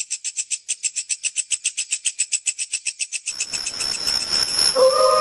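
Rapid, even chirping like a cricket's, about seven high-pitched pulses a second. A bit past halfway it gives way to a rising hiss, and near the end a steady held eerie tone sets in.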